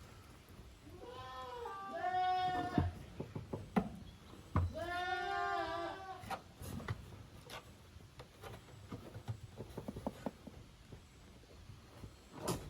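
Goat kids bleating: two drawn-out, wavering bleats, one about a second in and one about five seconds in, followed by scattered light knocks and clicks.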